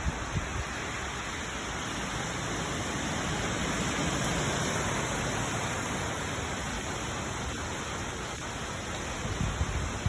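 Storm-force wind gusting, a steady rushing that swells about midway, with low thumps of wind buffeting the microphone near the start and near the end.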